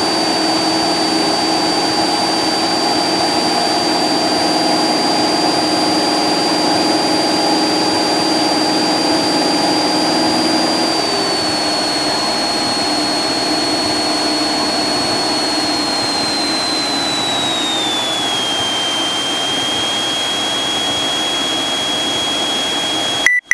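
Cessna 172's engine and propeller droning steadily in the cockpit, with a high whine that steps down in pitch about halfway through and again a few seconds later. Near the end the drone cuts off abruptly into a few short beeps.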